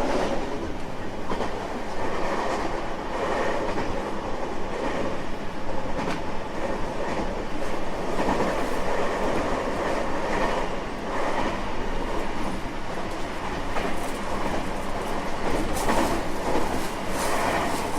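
JR West 225 series 5000 electric train running at speed, heard from inside the car: a steady rumble of wheels on rail, with scattered clicks as the wheels pass over rail joints.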